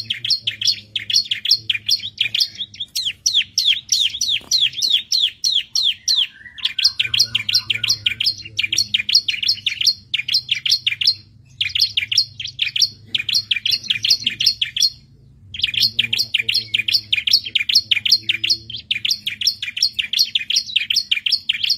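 Bar-winged prinia (ciblek) singing: fast runs of sharp, high chirps, about six a second, broken by short pauses.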